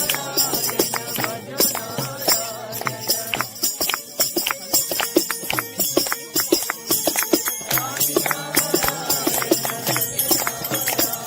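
Group singing a bhajan, with steady rhythmic hand-clapping and jingling percussion keeping the beat.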